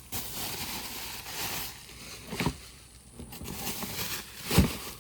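Rustling and handling noise as items are unpacked from a box, with two dull thumps, the second about four and a half seconds in and the loudest.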